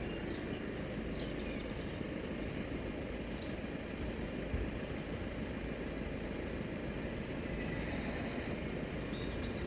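Steady outdoor background rumble at a level crossing, with birds chirping now and then.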